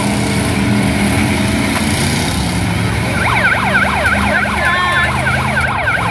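Demolition derby cars' engines running together, and about three seconds in an emergency vehicle's siren starts up in a fast yelp, about three wails a second.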